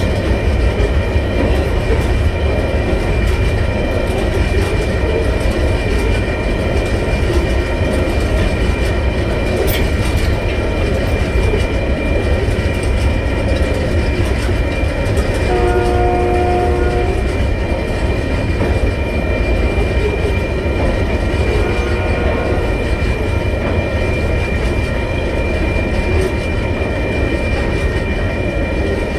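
Freight train of container wagons rolling over a level crossing: a steady low rumble and clatter of wheels on the rails, with thin high ringing tones held throughout. A horn sounds for under two seconds about halfway through, and more faintly about six seconds later.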